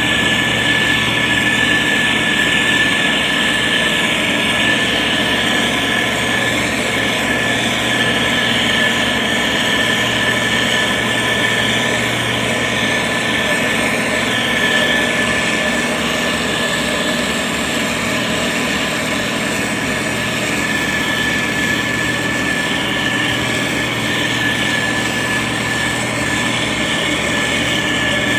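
Motor grader's diesel engine running steadily while it works, with a constant high whine over the engine sound.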